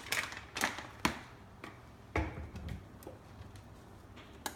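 A handful of light clicks and knocks from objects being handled, with one heavier, duller knock about two seconds in.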